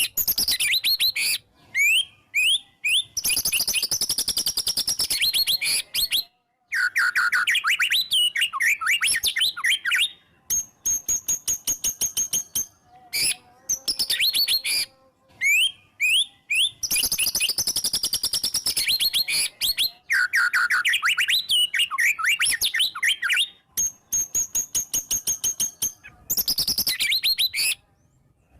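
White-rumped shama (murai batu) singing hard: long, varied phrases of quick whistles and trills with fast runs of repeated notes, broken by short pauses.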